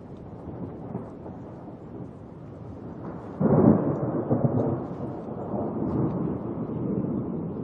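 Thunder during a rainstorm: a low background rumble with steady rain, then a sudden loud thunderclap about three and a half seconds in that rolls on and slowly fades.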